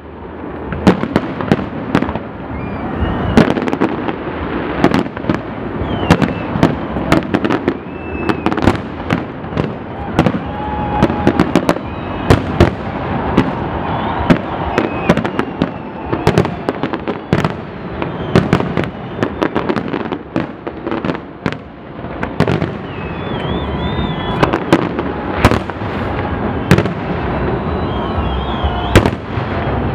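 Aerial fireworks display: shells bursting high overhead in a dense, irregular run of loud bangs, several a second, over a continuous rumble of echoing reports.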